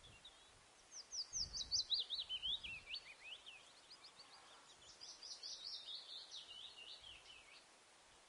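A bird singing two quick runs of high chirps, each note sliding downward in pitch, the first about a second in and the second around the middle.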